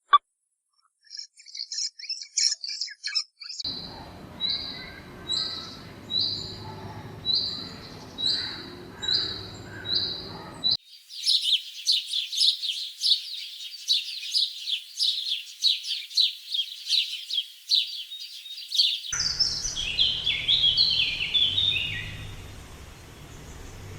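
Songbird calls in three abrupt segments: first a short high call repeated about once a second, then dense rapid chirping, then a quick run of falling chirps near the end.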